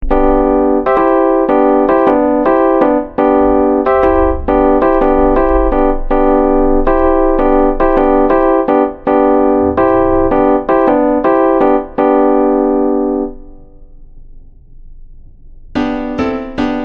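Background music played on an electric keyboard in a piano-like tone: a run of repeated chords and notes, dying away about thirteen seconds in, then starting again near the end.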